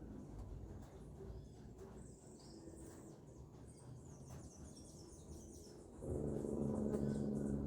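Stingless bees (mariolas) buzzing, a low steady hum that gets louder near the end as a bee comes close, with faint high chirping calls in the background.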